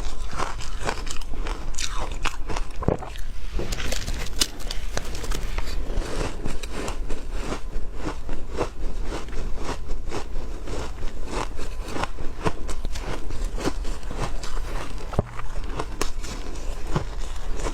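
Close-miked biting and chewing of hard ice: a dense, irregular run of sharp crunches and cracks as the ice is crushed between the teeth.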